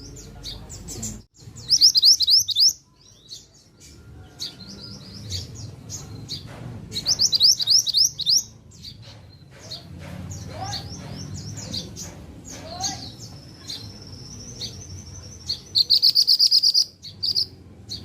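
A pied bushchat (mantenan) singing vigorously: loud bursts of rapid, high, slurred chirping notes lasting a second or two, three of them about five seconds apart, with scattered chirps and a held high whistle between.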